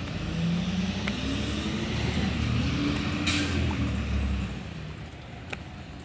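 Garbage truck's diesel engine revving up and easing back down, with a short air hiss partway through.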